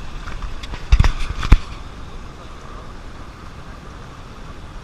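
A short cluster of sharp knocks and thumps about a second in, the two loudest half a second apart, over a steady rush of running water.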